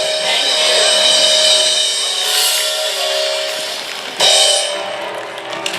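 Live band music: piano chords held over a drum kit, with a loud cymbal crash about four seconds in.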